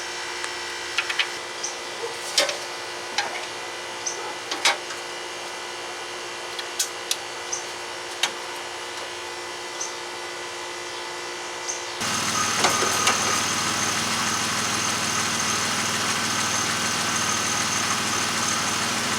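Scattered light clicks and taps of hand tools and metal parts as a 1999 Pontiac Firebird's headlight assembly and cover are put back together. About two-thirds of the way through, it cuts to the louder, steady sound of the Firebird's engine idling.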